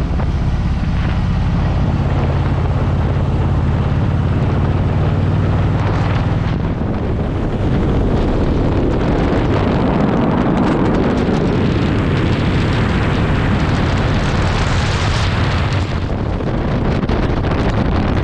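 Motorcycle riding at a steady speed: a steady engine note at first, soon buried under heavy wind buffeting the microphone, which swells in the middle and later part.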